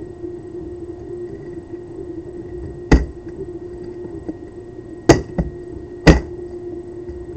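Solenoid-driven 3D-printed pulse propulsion device knocking on a table: three sharp, loud knocks with a smaller knock just after the second, among faint ticks, over a steady low hum.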